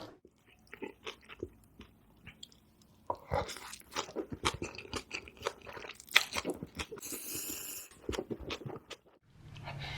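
Close-miked mukbang eating of spicy noodles: wet chewing and biting with many short mouth clicks, sparse at first and busier from about three seconds in, with a brief hissing stretch around seven seconds.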